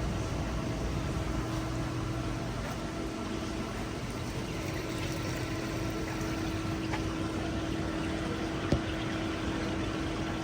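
Steady hum and water noise of aquarium tank pumps and filters, with a single click near the end.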